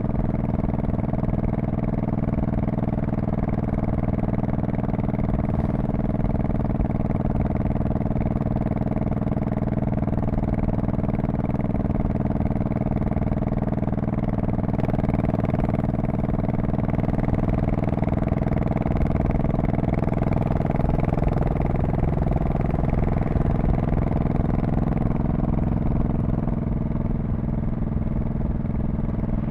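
2002 Honda Shadow Spirit VT1100C's V-twin engine and exhaust running steadily while cruising, its pitch shifting slightly a little past the middle.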